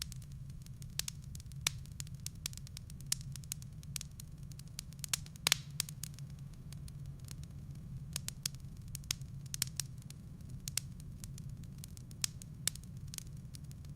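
Wood fire burning in a fireplace: irregular sharp crackles and pops of the firewood over a steady low rumble, with the loudest pop about five and a half seconds in.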